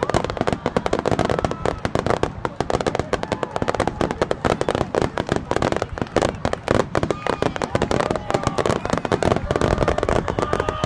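Aerial fireworks bursting in a rapid, dense barrage, many bangs and crackles each second without a break.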